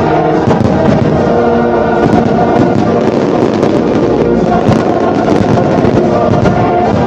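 A fireworks finale: rapid, unbroken pops and crackling bursts, with show music playing through them at a steady loud level.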